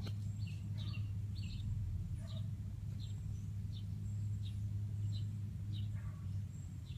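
A bird chirping over and over, short high notes that drop in pitch, about one or two a second, over a steady low hum.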